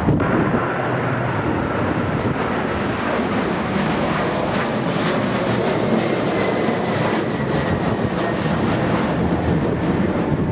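Jet airliner engines, a steady loud rush with a faint high whine that drifts slightly down in pitch partway through.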